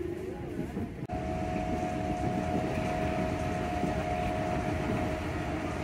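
Old local train running, heard from inside the carriage: a steady rumble, with a high steady whine that sets in about a second in.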